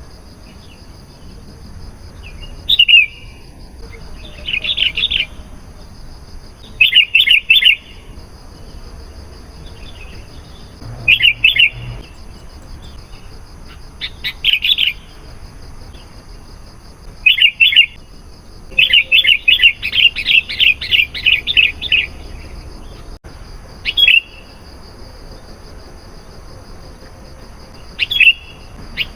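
Sooty-headed bulbul (kutilang) singing: short phrases of quick whistled notes every two or three seconds, with a longer run of rapidly repeated notes about two-thirds of the way through. A faint steady high whine sits underneath.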